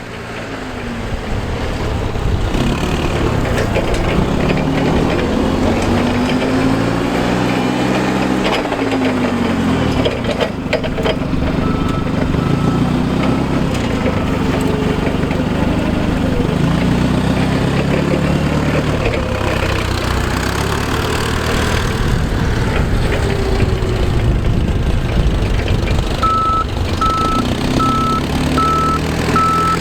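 Clark forklift truck's engine running, its speed rising and falling several times. A reversing beeper beeps steadily, faint in the middle and loud near the end as the forklift backs up.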